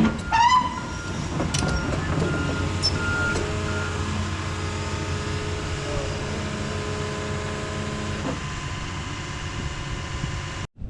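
Heavy earthmoving machine's engine running steadily under work, with its backup alarm beeping at an even pace during the first few seconds. The sound cuts off abruptly just before the end.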